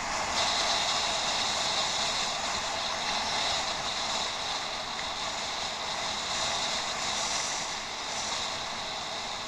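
Steady rushing noise of riding a bicycle, picked up by a helmet- or head-mounted action camera: wind and tyre noise blended into an even hiss that gets a little brighter about half a second in.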